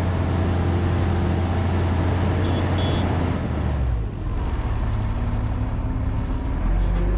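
Volvo A25G articulated haul truck's diesel engine running steadily under load. About four seconds in the engine note drops and changes pitch, then it picks up again near the end.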